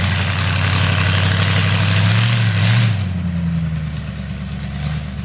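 Demolition derby car's engine running, its pitch rising briefly about two seconds in. About three seconds in a loud hiss cuts off and the engine settles to a quieter idle.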